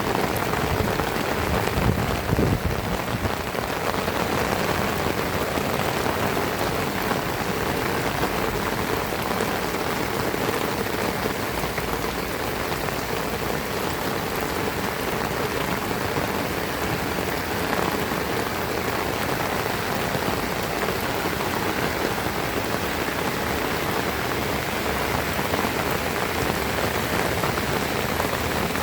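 Heavy rain falling steadily, an even hiss of drops on surfaces, with a brief low bump about two seconds in.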